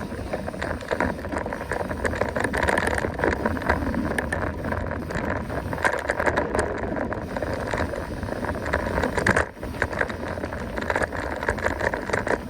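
Mountain bike being ridden over rough ground: steady tyre noise with many quick clicks and rattles from the bike, dipping briefly about nine and a half seconds in.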